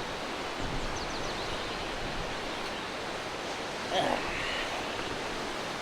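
Steady rushing outdoor background noise of wind or lake waves, with a few faint high chirps about a second in and a short louder call about four seconds in.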